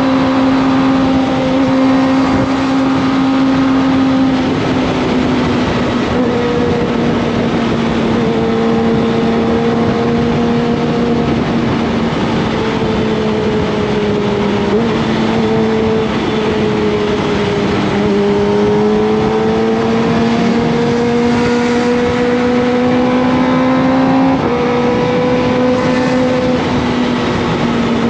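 Kawasaki ZX25R's 250 cc inline-four engine running at fairly steady high revs while riding, its pitch drifting slowly down and back up, with small sudden drops in pitch about four seconds in and again near the end.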